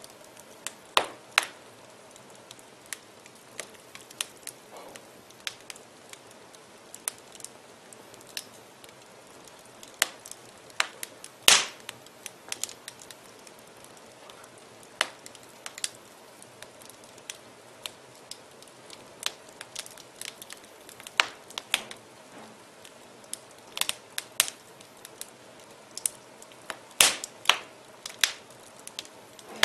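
Wood fire in a fireplace crackling: irregular sharp pops and snaps over a faint steady hiss. The loudest pops come about a second in, near the middle and again near the end.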